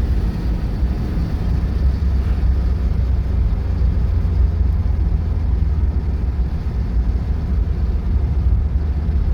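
1983 Porsche 944's 2.5-litre four-cylinder engine and road noise heard from inside the cabin while driving, a steady low drone with no change in revs.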